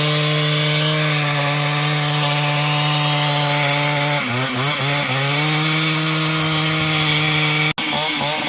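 Two-stroke chainsaw running at high revs while cutting lumber. The engine holds a steady pitch, sags and wavers about four seconds in, then steadies again, and the sound cuts out abruptly for an instant near the end.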